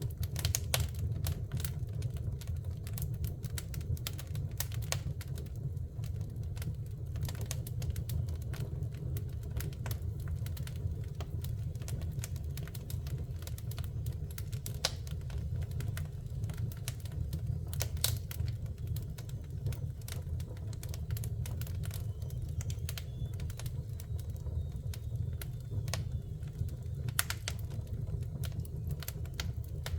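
Wood fire burning in a fireplace: irregular crackles and pops, with a few sharper snaps, over a steady low rumble.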